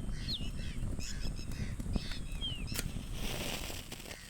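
Forest birds calling: short whistled notes that slide down in pitch, several times, over a low steady rumble, with a single sharp click near the middle.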